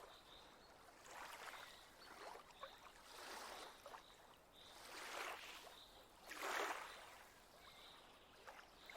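Faint water sound: soft swishes and small splashes every second or two, like water lapping or gently stirred, the loudest about two-thirds of the way through.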